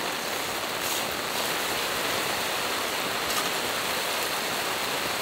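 Steady rain falling on a camping tarp, an even hiss with a couple of faint clicks.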